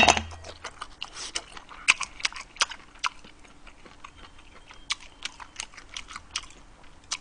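Close-miked chewing of tender kimchi-braised beef short rib: irregular wet mouth clicks and smacks. It opens with a louder bite.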